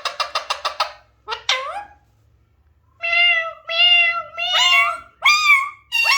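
Alexandrine parakeet calling. It opens with a rapid chatter of short notes, about ten a second, then gives one sweeping call. After a short pause come long drawn-out calls, the last ones rising and falling in pitch, which sound much like a cat's meow.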